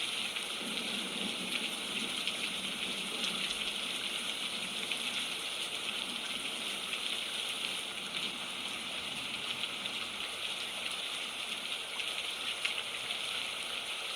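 Heavy rain falling steadily, splattering on the ground and drumming on the top of a fort, with many small drops ticking through the steady hiss.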